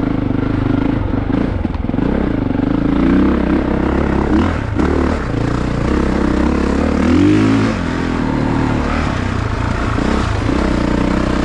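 2022 Honda CRF450RX's single-cylinder four-stroke engine under way on a dirt trail, revving up and dropping back several times as the throttle is worked.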